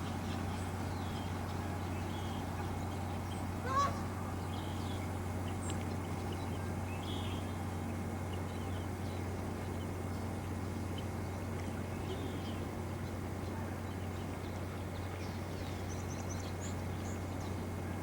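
A steady low hum with one short bird call about four seconds in, and a few faint, higher chirps later on.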